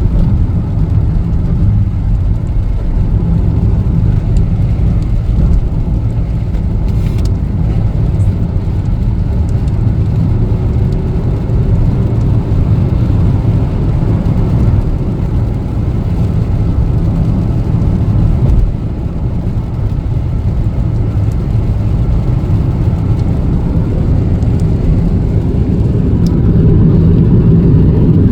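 Car driving, with steady low road and engine noise heard from inside the cabin, getting a little louder near the end.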